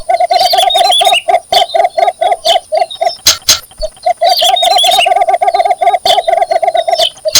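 Cinnamon bittern giving its mating call: a fast run of low, clucking notes, about six a second. The notes stop for about a second and a half midway, then start again.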